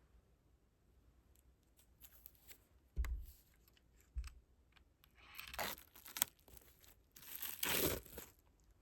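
Album packaging being torn open by hand, in two long rasping tears, the second the louder, after a dull thud about three seconds in.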